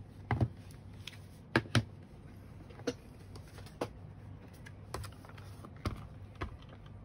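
Irregular light clicks and taps of hard plastic parts being handled: the Dyson V8 vacuum cleaner and its battery pack, some of the clicks coming in quick pairs.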